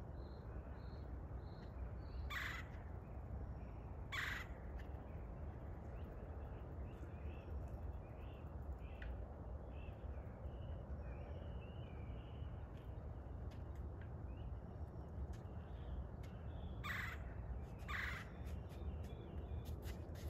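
Outdoor birdsong: a large bird gives four short, harsh calls, two early and two near the end, while small birds chirp faintly over a steady low rumble.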